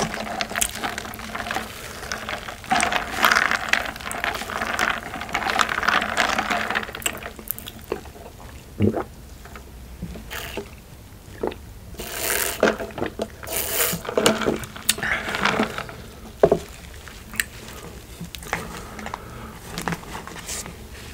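Close-miked eating sounds: wet chewing and mouth noises in uneven bursts, busiest in the first several seconds and then coming in short scattered bursts with pauses between.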